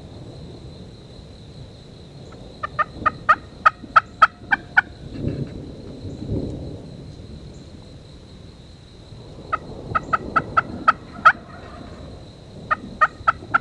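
Turkey calling: three runs of quick, evenly spaced, pitched notes, about eight or nine notes in each of the first two runs and four near the end. A low rumble comes between the first and second runs.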